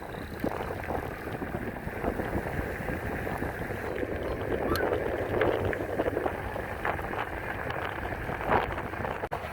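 Wind rushing over the microphone, with road and traffic noise, while riding an e-bike along a highway.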